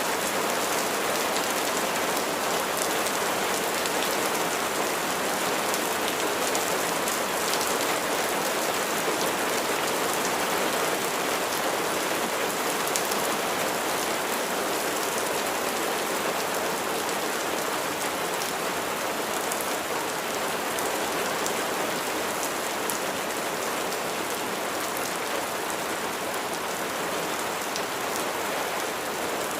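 Steady rain falling, a dense even patter of drops with fine ticks of individual drops striking a surface.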